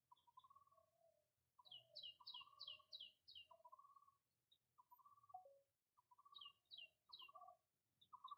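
Birds calling faintly: a string of short, lower calls about once a second, broken by quick runs of high chirps, five in a row about two seconds in and three more near the end.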